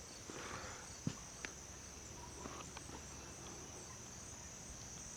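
Faint, steady high-pitched chirring of crickets, with a couple of soft clicks about a second in.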